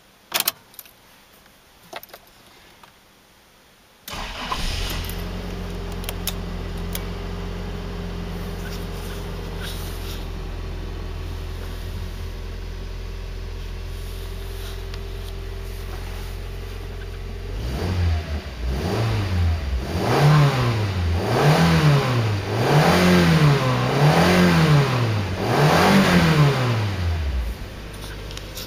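A Toyota 3RZ-FE 2.7-litre inline-four petrol engine starts after a few clicks and idles steadily. Later it is revved five times in quick succession, each rev rising and falling back, and it stops near the end.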